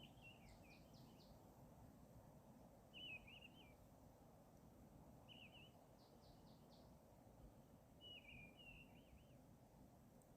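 A bird's faint, short warbling calls, four brief phrases a few seconds apart, over a low background hiss.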